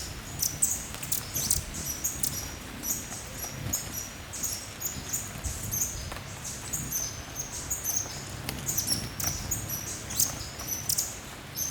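Hummingbirds giving many short, high-pitched squeaky chips in quick, overlapping series, over a low steady rumble.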